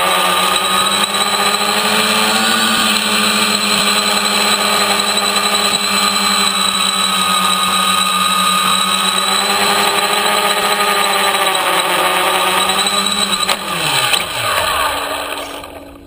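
Home-built T-Copter's electric motors and propellers running steadily, their pitch wavering a little with the throttle. About thirteen seconds in, the motors spin down: the pitch falls steeply and the sound dies away.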